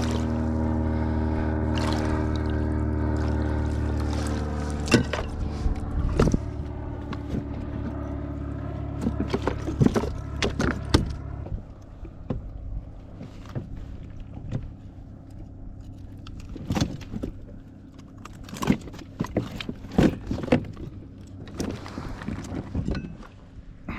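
Small electric trolling motor humming steadily, then shutting off abruptly about halfway through. Scattered clicks and knocks follow.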